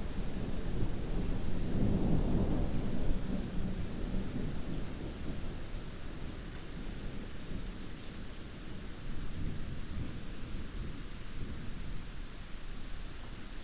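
Heavy rain falling steadily, with a low rumble of thunder that swells about two seconds in and dies away over the rest.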